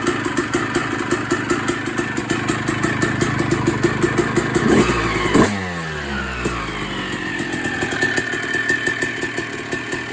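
2006 Suzuki RM250's single-cylinder two-stroke engine running through a Pro Circuit exhaust with a rapid popping idle. It is revved once about halfway through, and the revs fall back to idle.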